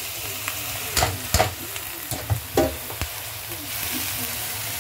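Wet spinach going into hot oil and seasoning in a pot, sizzling steadily, with several sharp metal knocks of the strainer and spoon against the pot between about one and three seconds in.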